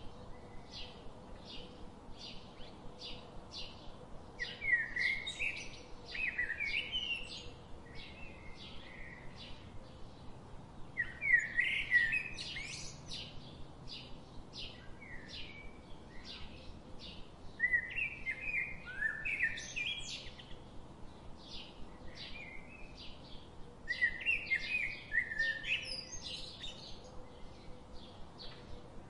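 Birds chirping: a steady run of short high chirps, about two a second, with a louder warbling phrase of rising and falling notes returning every six seconds or so.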